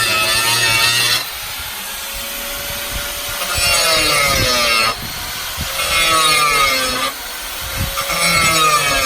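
Electric power saw cutting wood in repeated passes: the motor's whine bends in pitch and gets louder while the blade is in the wood, then drops back to a quieter run between cuts, about four cuts.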